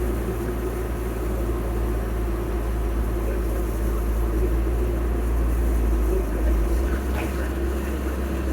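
Heavy machinery diesel engine running steadily, a constant low drone.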